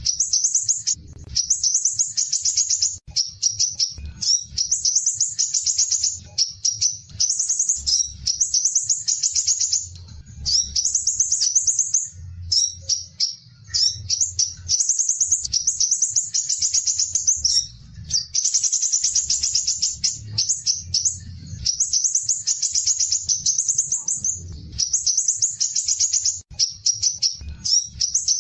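Small songbird singing long, rapid, high-pitched trilled phrases of a second or two each, one after another with only brief pauses, over a faint low rumble.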